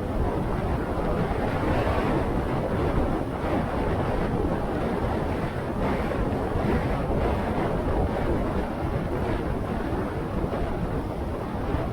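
Steady wind rushing over the microphone of a moving motorcycle, with road and engine noise underneath.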